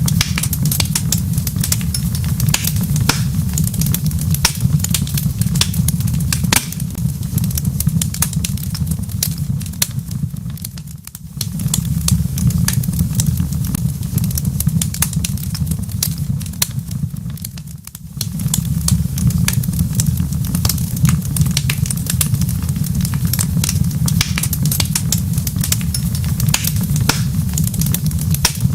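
Wood fire crackling in a fireplace: a steady low rumble of flames with many sharp pops and snaps. The sound dips briefly twice, once roughly a third of the way in and again past the middle.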